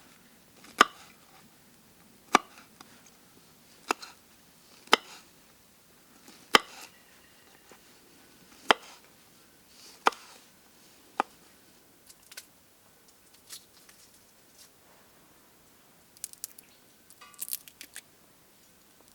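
Chopping: about eight sharp, separate strikes of a blade, one every second or two, then lighter clicks and handling rustles near the end.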